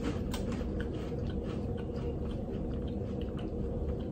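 People chewing bites of a crunchy wafer filled with banana paste: soft, irregular crunching clicks over a steady low hum.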